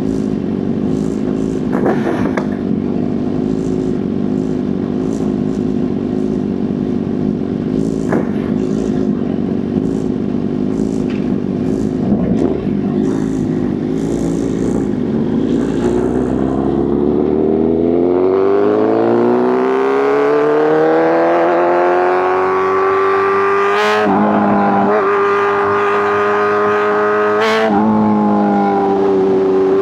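Sport-bike inline-four engine and exhaust at speed: a steady note under wind and road noise, then the revs climb smoothly as the bike accelerates about two-thirds of the way in and hold at a higher pitch, broken briefly twice near the end.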